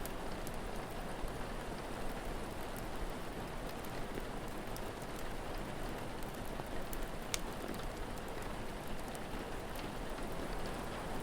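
Steady rain falling, with a few sharp crackles from a wood fire scattered through, the loudest about seven seconds in.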